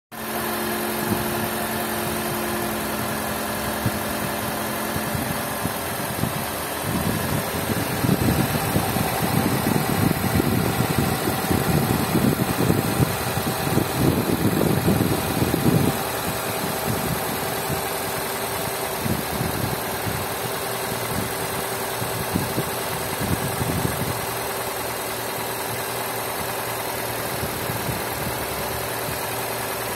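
Nissan Qashqai four-cylinder engine idling steadily under the open hood. It is louder and rougher from about 7 to 16 seconds in, then settles back to an even idle.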